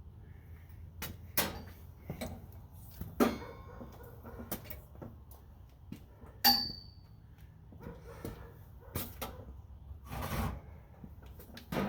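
Scattered knocks and clicks of metal parts and tools being handled on a workbench, one of them a short metallic clink with a brief ring about six and a half seconds in.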